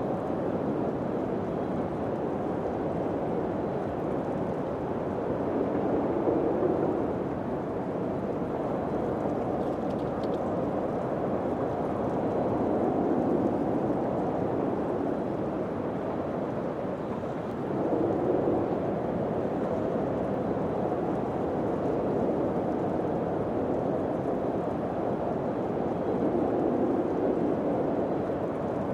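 Wind blowing steadily with a low, hollow noise that swells in gusts every several seconds.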